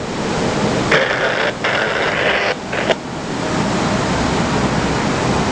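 Strong wind buffeting the microphone: a steady rushing noise, with a brighter hiss from about one to three seconds in and a deeper rumble after.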